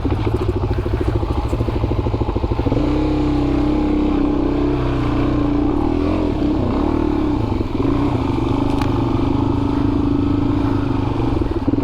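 Dual-sport motorcycle engine running on a dirt trail. It chugs unevenly for the first few seconds, then settles into a steady, higher drone.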